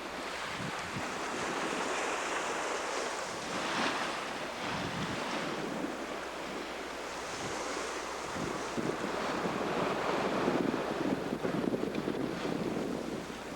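Sea rushing past a sailing yacht under way, with wind buffeting the microphone. The wash swells and eases every few seconds.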